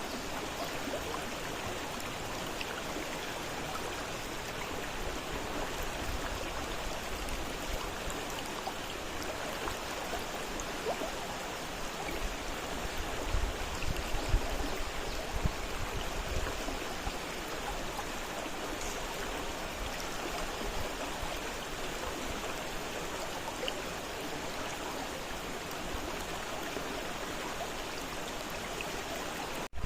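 A fast-flowing river rushing steadily over rocks. A stretch of low rumble with a couple of brief louder bumps comes about halfway through.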